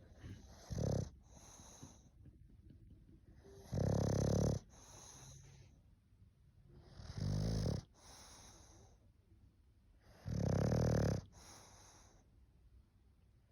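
English bulldog snoring in its sleep: four loud, low, rattling snores about three seconds apart, each followed by a softer breath out.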